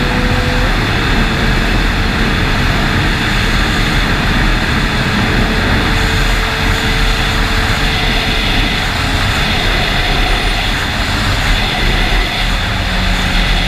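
Sportbike engine running at fairly steady revs, its pitch rising slowly, under a loud, steady rushing noise.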